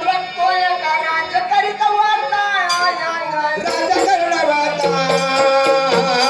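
Marathi folk devotional music (kalgi shahiri): a bending melodic line over sustained tones. From about halfway in, a steady beat of sharp percussion strokes joins.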